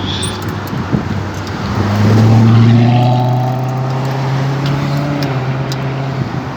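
A motor vehicle's engine hum swells as it goes by close to the bicycle, loudest about two seconds in, then fades over the steady rush of road traffic.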